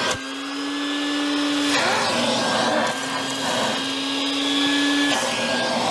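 Vacuum cleaner running steadily on a car's interior. Its motor hum steps slightly up and down in pitch a few times. A brief knock sounds right at the start.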